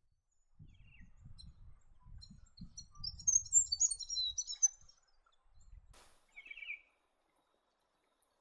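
Bird calls: a quick run of high chirps from about three to four and a half seconds in, and a short lower call just after six seconds, over a low rumble. A sharp click comes just before the lower call, and the sound cuts off about a second later.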